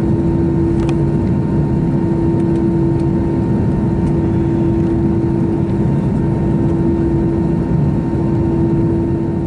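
Steady engine and airflow noise inside the cabin of an Airbus A321 in flight or on the takeoff run, a constant drone with a steady hum and a fainter higher whine running through it.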